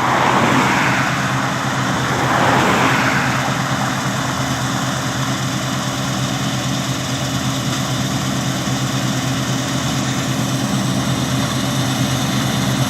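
Claas Lexion combine harvester running close by while harvesting barley: a steady diesel engine hum with machinery noise over it, the noise louder in the first three seconds as it passes.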